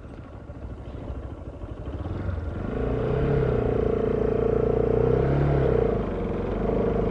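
Honda CBR600 motorcycle's inline-four engine running under way, getting louder about two and a half seconds in as the throttle opens, with a steady high whine.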